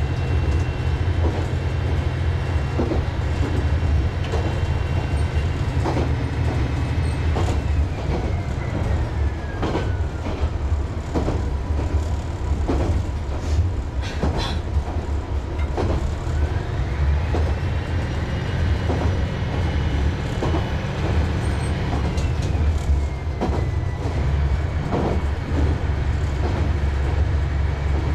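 Diesel railcar running slowly, heard on board: a steady low engine rumble with irregular wheel clicks over the rail joints. A high whine slides down about eight seconds in and rises again about sixteen seconds in.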